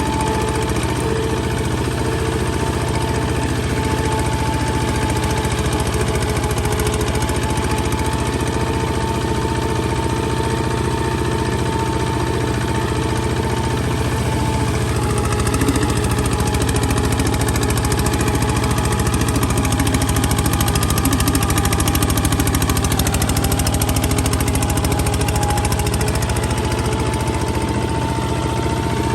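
Kubota ZT155 single-cylinder diesel engine running steadily under way, with a hard, rapid knocking beat. Its pitch sags a little about halfway through and climbs back near the end.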